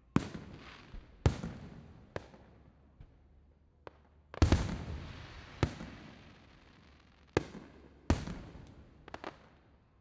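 Aerial fireworks shells bursting: about eight sharp booms with rolling echoes after each, the biggest about four and a half seconds in, and a quick cluster of smaller pops near the end.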